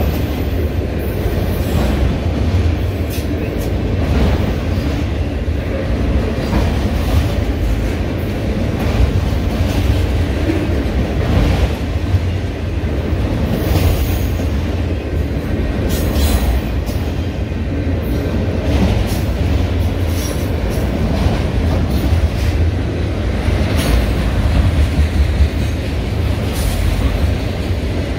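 Freight train of autorack cars rolling past on steel rails: a steady low rumble of wheels on track, with scattered clicks.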